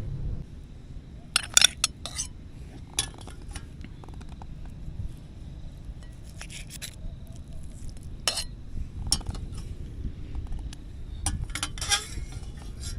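Metal cooking utensils clinking and scraping against pots and dishes: scattered sharp clinks, a quick cluster about a second and a half in and a longer scrape near the end, over a low steady rumble.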